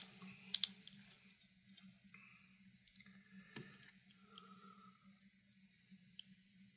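A utility knife blade scraping and prying at a glued-in plastic part of a computer power supply, with two sharp clicks about half a second in and scattered faint ticks and scratches after. A low steady hum runs underneath.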